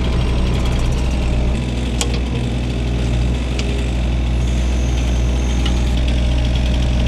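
An engine idling steadily, with a sharp click about two seconds in.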